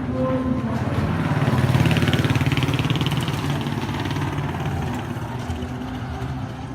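A motorcycle engine running close by, with a fast, even firing pulse. It grows louder to about two seconds in, then fades away, as if the bike passes and moves off.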